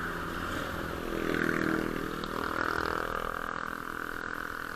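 A motor vehicle's engine passing by, swelling about a second in and then fading away.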